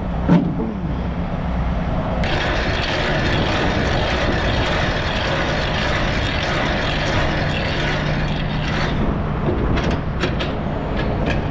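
Semi-truck running steadily, heard from the cab as a low rumble. A steady hiss comes in about two seconds in and stops near nine seconds.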